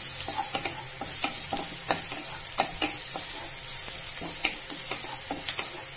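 Sliced onion and garlic sizzling in butter in a kadai, a steady frying hiss. A wooden spatula stirs them, knocking and scraping against the pan in irregular clicks.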